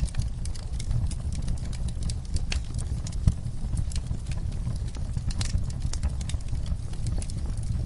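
Wood fire crackling, with irregular sharp pops and snaps over a steady low rumble of burning. One louder pop comes about three seconds in.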